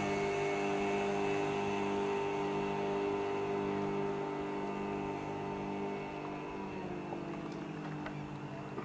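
15 hp outboard motor running at a steady speed with an even drone. About six seconds in, its pitch falls and it gets a little quieter.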